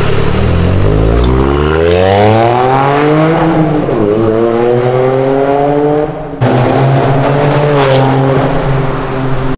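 Toyota GR Yaris's turbocharged three-cylinder engine accelerating hard through its exhaust, the note climbing, dropping at an upshift about four seconds in, then climbing again. After an abrupt cut about six seconds in it holds a steady pitch.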